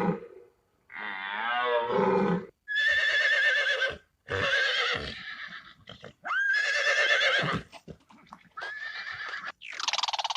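Horse neighing: a series of whinnies about a second long each, with a wavering pitch, separated by short gaps.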